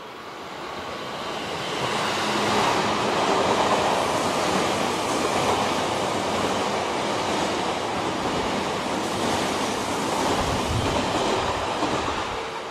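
Odakyu Romancecar limited express passing through the station at speed alongside the platform. The sound builds over the first two seconds, holds steady and loud, and starts to fade near the end.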